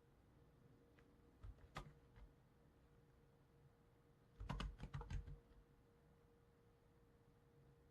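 Computer keyboard keys being typed in short, quiet bursts: a couple of keystrokes about two seconds in and a quick run of several near the middle, with pauses between. A faint steady hum sits underneath.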